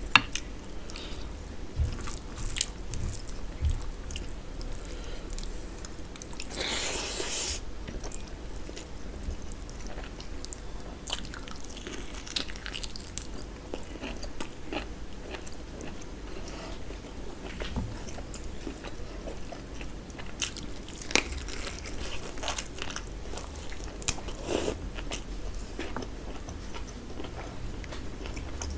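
Close-up eating sounds of a person chewing and biting rice and curried meat eaten by hand: many short wet clicks from the mouth, with a brief louder hiss about seven seconds in.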